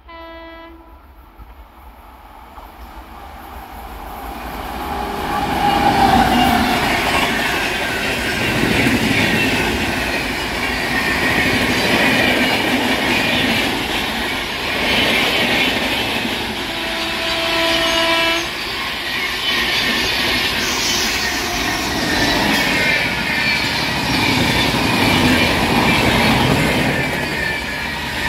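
Express train hauled by a WAP7 electric locomotive passing at speed, its wheels and coaches clattering loudly on the rails. The air horn sounds briefly at the start and again for about two seconds a little past the middle.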